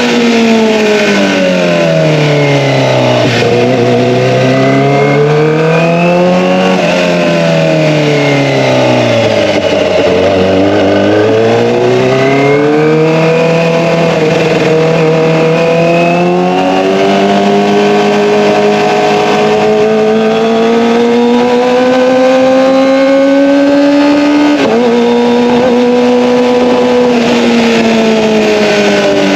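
Kawasaki ZX-25R's 249 cc inline-four engine through an Akrapovic Evolution exhaust, with the revs moving continuously. The pitch drops, rises and drops again over the first ten seconds, then climbs slowly for a long stretch, with a brief break in the pitch about 25 seconds in.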